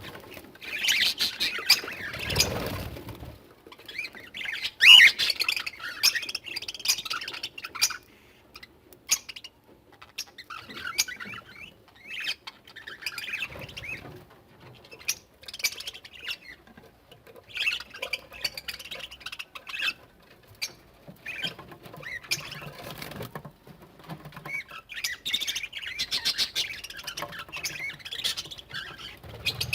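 Aviary budgerigars and cockatiels chattering and squawking in bursts, with scattered sharp clicks between the calls.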